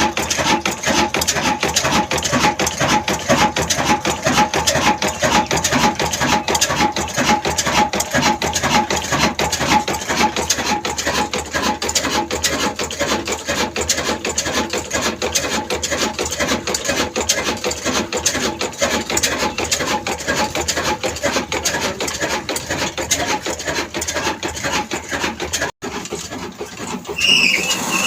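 Old black 24 hp diesel engine of the Ruston type running steadily with a fast, even knocking beat. The sound breaks off briefly near the end and a smoother machine sound follows.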